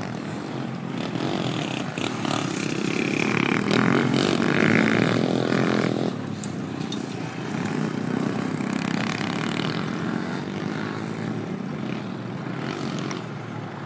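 Motocross dirt bike engines running on the track, louder for a few seconds from about two seconds in, then dropping back suddenly.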